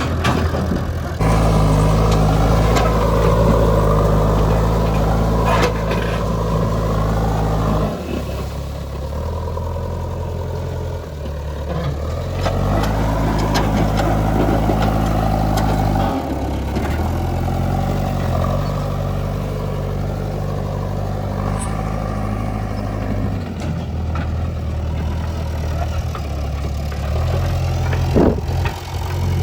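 JCB 3DX backhoe loader's diesel engine running, its revs stepping up and dropping back several times as it works under load.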